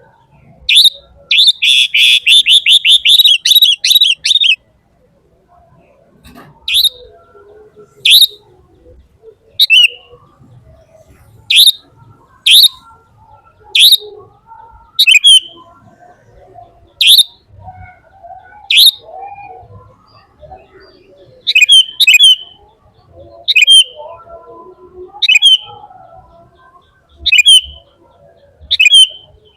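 A bird chirping loudly: a fast run of high chirps about a second in, then single sharp chirps, now and then in pairs, about every second or so.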